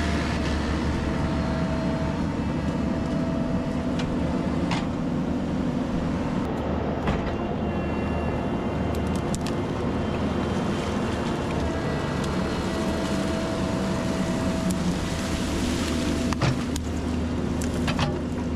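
Heavy-equipment diesel engine running steadily, with a few short knocks now and then.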